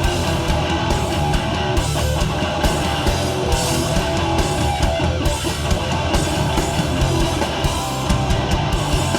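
Hardcore punk band playing live: distorted electric guitars, bass and drum kit in an instrumental breakdown with no vocals.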